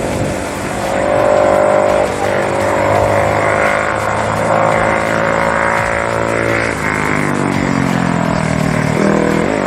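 Off-road race vehicle engine running hard at steady revs. Its pitch falls as it lets off from about seven seconds in, then rises again near the end.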